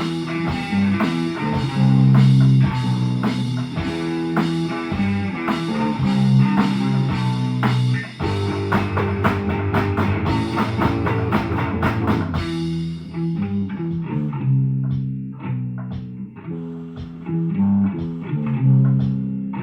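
Amateur death metal band playing: a loud electric guitar riff with drums. About 13 seconds in, the crashing cymbal and upper wash stops, leaving the low riff notes and lighter, sparser drum hits.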